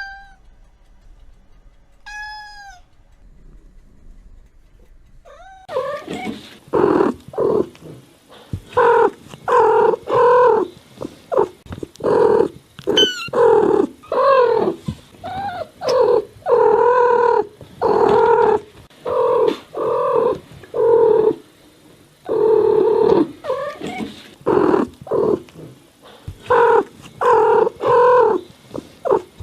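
Cat meowing: two thin, high mews in the first few seconds, then from about six seconds in a long run of loud meows, roughly one a second.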